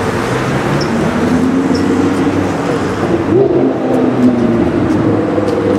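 Lamborghini Huracán's V10 with a tuned Fi exhaust, running at low speed with its note gliding up and down and rising briefly about three seconds in.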